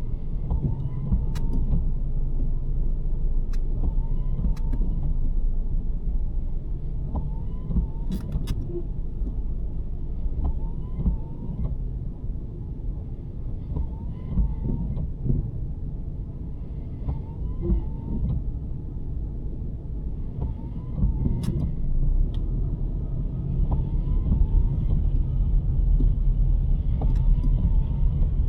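A 2023 Nissan Sentra driving on a snowy road: a steady low road and tyre rumble, with a short chirp repeating about every two seconds and a few faint clicks.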